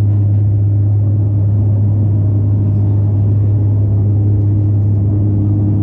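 Cabin noise of a De Havilland Canada Dash 8-400 turboprop: a loud, steady, deep propeller hum with a low engine rumble under it, unchanging throughout.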